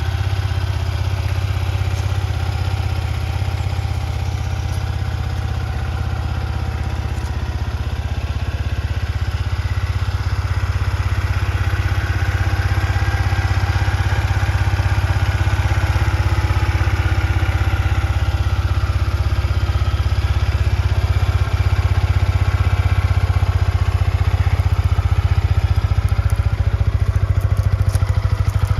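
Yamaha XSR125's single-cylinder four-stroke engine idling steadily.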